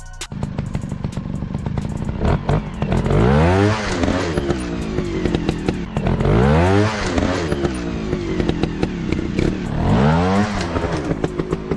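Dirt bike engine running and being revved three times, each rev rising in pitch and dropping back, with clattering clicks throughout.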